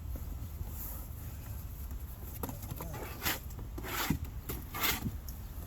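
A trowel scraping vinyl concrete patch across a concrete porch: a few short scraping strokes in the second half, over a steady low rumble.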